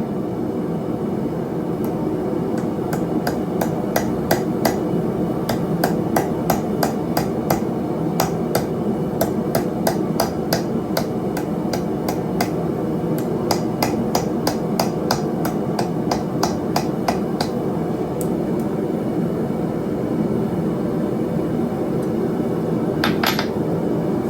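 Blacksmith's hammer striking steel on an anvil in runs of about two to three blows a second, thinning to a few scattered blows in the last seconds, over a steady low rumbling noise.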